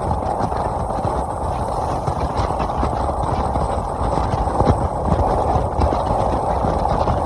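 Motorcycle running on the road, a steady engine sound mixed with low wind rumble.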